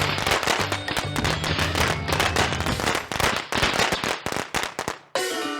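Cartoon firecrackers crackling and popping in a rapid stream over background music, cutting off about five seconds in. A chiming music cue starts just after.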